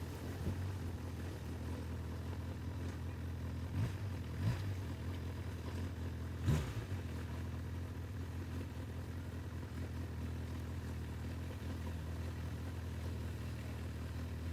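Honda CB1000R inline-four motorcycle engine running at a steady, unchanging idle, with a few short thumps around four seconds in and a louder one a little after six seconds.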